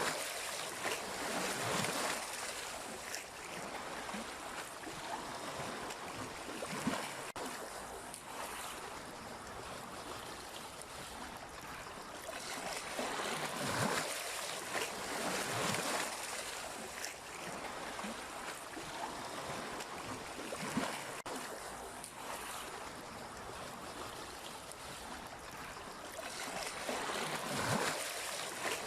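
Sea waves washing on the shore: a continuous rushing surf that swells with each wave every several seconds and eases off between them.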